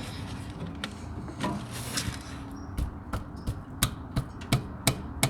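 Sharp metallic knocks and clicks of tools working on a seized diesel fuel injector to break it loose, sparse at first, then coming about two or three a second in the second half.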